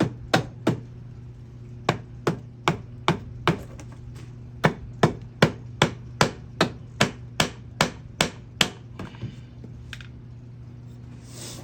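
Mallet tapping repeatedly on a Honda CR250 engine side cover to break it loose from the case after its bolts are out. The taps are sharp and evenly spaced, about two or three a second, in short runs with pauses between. A steady low hum runs underneath.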